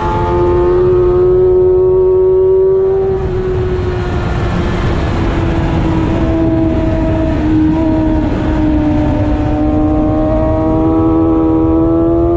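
Sport motorcycle engine at high revs through a fast lap of a race circuit, with wind rushing over the onboard camera. The engine note holds fairly steady through the corners, eases briefly about three seconds in, then climbs in pitch near the end as the bike accelerates.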